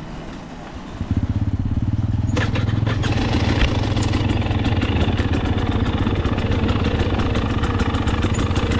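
KTM 300 two-stroke enduro dirt bike engine. It comes in suddenly and loud about a second in with a fast, even pulsing note, then grows fuller and louder from about two and a half seconds in and runs on steadily.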